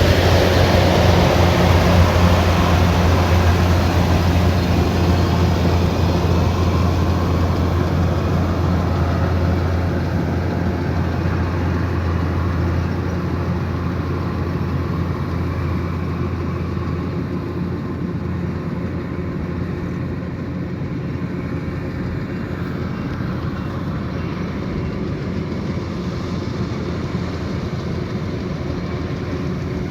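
Kubota DC108X combine harvester running steadily, its diesel engine giving a deep, even hum that slowly grows quieter.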